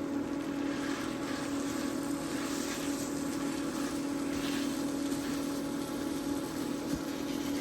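Steady hum of a small electric motor, one unchanging low tone, with a rushing noise over it that swells and fades every second or so.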